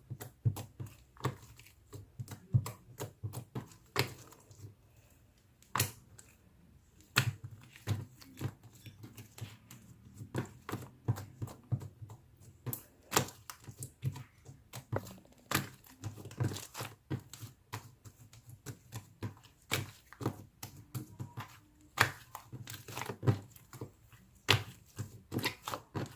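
Slime being squished and pressed by hand, making irregular sticky pops and clicks, at times several a second.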